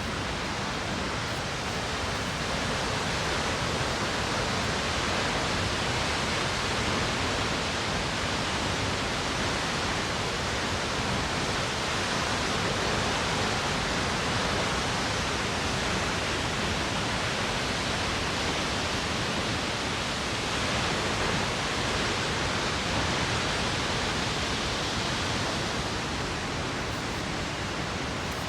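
Månafossen waterfall: a steady, unbroken rush of falling water.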